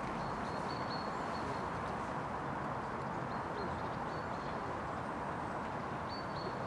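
Steady outdoor background noise with faint, short, high chirps heard in three brief groups.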